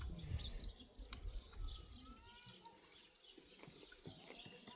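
Small wild birds chirping, many short high calls over one another, with a low rumble through the first two seconds.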